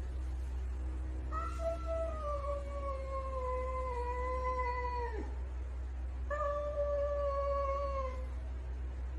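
A cat giving two long, drawn-out meows. The first lasts about four seconds, sliding slowly down in pitch and dropping off at the end. The second, near the end, is shorter and holds a steadier pitch.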